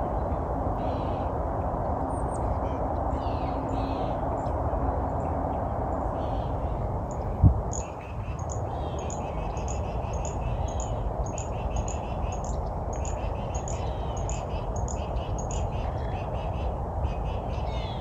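Small birds calling over a steady low rush of background noise, with a regular run of short high chirps about two a second in the middle stretch. A single sharp low thump comes about halfway through.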